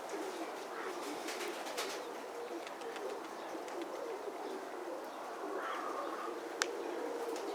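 Domestic pigeons cooing, several low coos overlapping without a break, with a few light clicks and one sharp click near the end.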